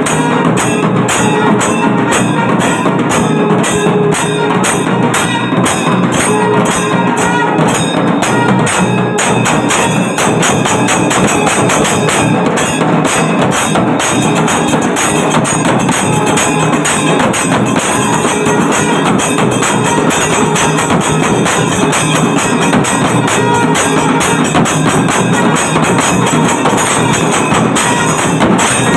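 Kailaya melam, a Shaivite temple percussion ensemble, playing a fast, steady rhythm. Drums beat under constantly clashing small cymbals.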